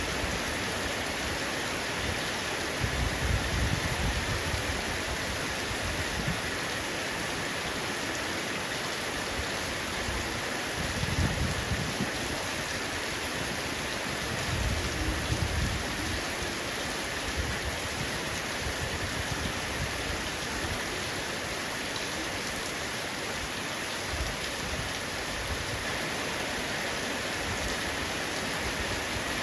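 Heavy rain falling steadily on a roof, an even hiss of drops, with three brief low rumbles swelling up about three, eleven and fifteen seconds in.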